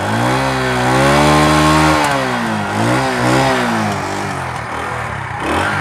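Revolt 70cc motorcycle's single-cylinder four-stroke engine, heard close to its exhaust, revved twice by hand: a long rise in pitch held for about a second and falling back, then a shorter blip around three seconds in, before it settles to a lower idle.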